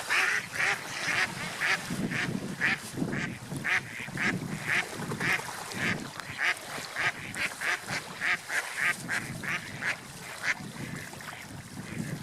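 Ducks quacking, a rapid run of short calls, two or three a second, that thins out near the end.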